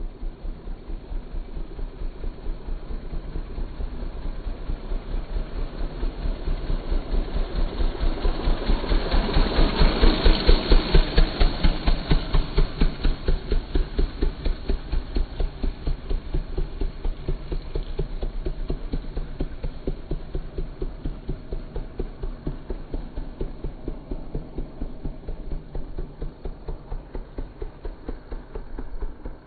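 Royal Enfield Bullet Classic 350's single-cylinder engine passing by at a slow, even beat of exhaust thumps, growing louder to a peak about ten seconds in and then fading away.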